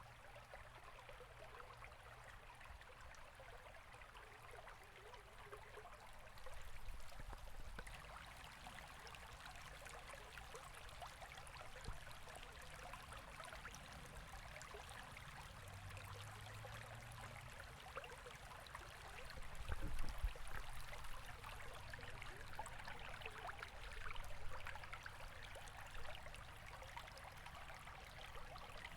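A river flowing, heard as a faint, steady rushing and trickling of water. A low rumble swells briefly twice, about seven seconds in and again near twenty seconds.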